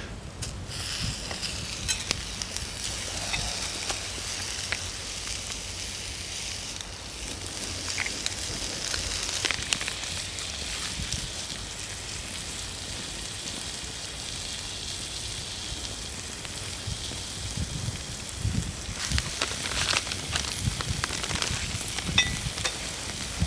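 Food sizzling in a pan over a wood fire: a steady hiss with scattered crackles. The hiss fades about three quarters of the way through, and a few knocks and clicks follow near the end.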